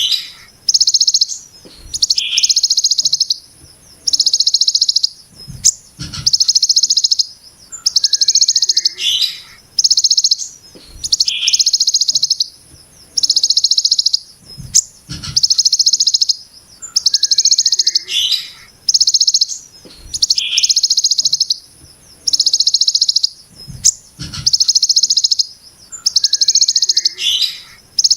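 Ciblek gunung (a mountain prinia) giving its harsh 'brem' call over and over: dense buzzy bursts of very rapid notes, each about a second long and coming roughly every two seconds, with short falling notes between them.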